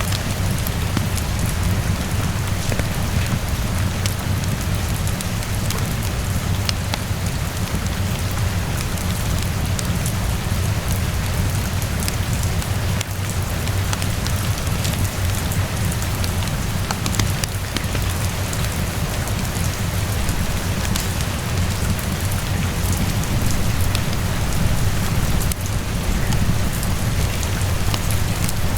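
Steady rainfall with a deep, constant rumble underneath, and scattered light crackles and pops of a wood fire in a fireplace.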